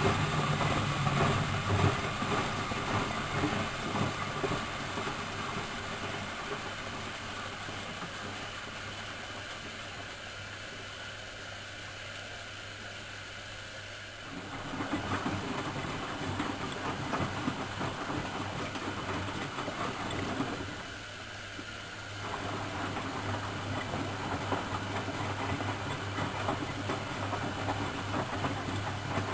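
Miele Professional WS 5105-C washing machine running. Its noise fades gradually over the first half, picks up again sharply about halfway with a steady low hum, drops out briefly for a second or so near two-thirds of the way, then resumes.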